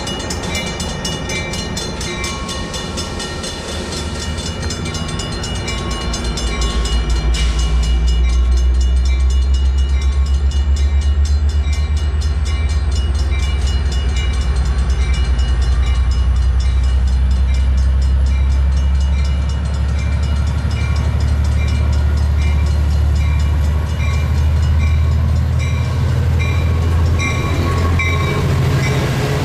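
Diesel passenger train pulling into the station, a deep rumble swelling about six seconds in as it nears and staying loud as the coaches roll past. A grade-crossing warning bell dings steadily about one and a half times a second throughout.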